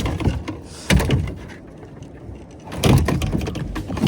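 A large northern pike thrashing in a kayak, its body knocking and thumping against the hull, with a louder thump about a second in and another near three seconds.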